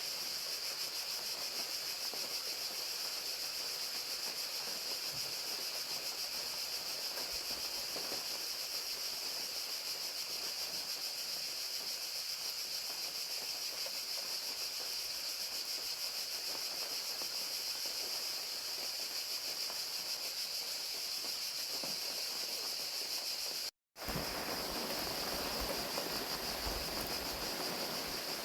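Crickets chirping in a steady high-pitched chorus over the even hiss of falling rain. There is a split-second break about three-quarters of the way through, after which the rain sounds fuller.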